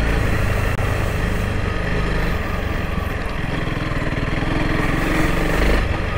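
Honda CRF300L Rally's single-cylinder engine running steadily while riding, with a slight change in its note near the end.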